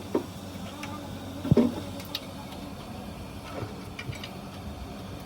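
Scattered knocks and light clinks, the loudest about a second and a half in, over a steady low machine hum.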